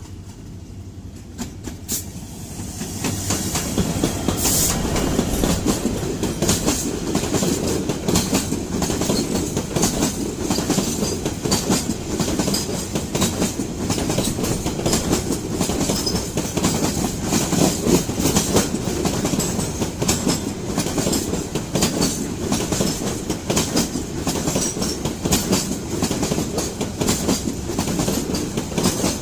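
Freight train of oil tank wagons passing close by, its wheels clattering rapidly and steadily over the rail joints. The sound builds over the first few seconds as the train arrives, then stays loud.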